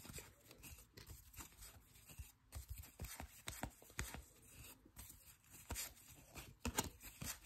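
Faint rustling and light clicks of trading cards and card-pack wrappers being handled, with cards slid and flipped one after another.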